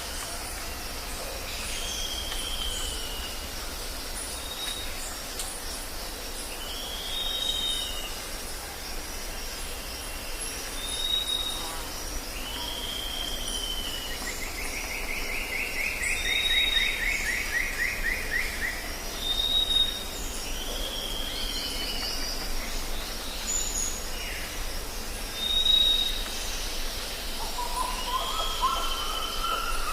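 Jungle ambience: birds calling over a steady, high insect drone. One bird repeats a short arched call every few seconds, a short high note also recurs, and a fast trill runs for several seconds about halfway through.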